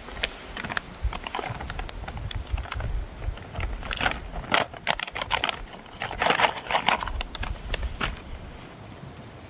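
Close handling noise: rustling and crinkling with many scattered sharp clicks, busiest from about four to seven seconds in.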